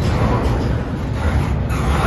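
Loaded double-stack intermodal well cars of a freight train rolling past, with the steady noise of steel wheels on the rails, heaviest in the low end.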